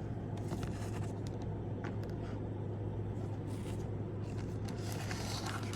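Steady low background hum with a few faint light clicks and taps of a subscription box's contents being handled.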